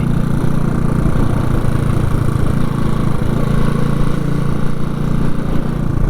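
Motorcycle engine running steadily while riding along a road, with road noise.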